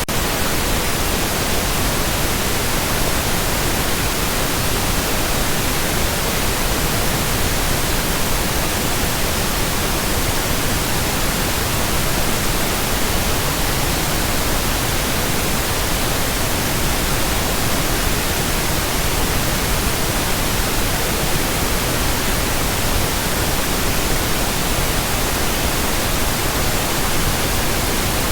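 Steady pink noise: an even, unchanging hiss across the whole range of pitch.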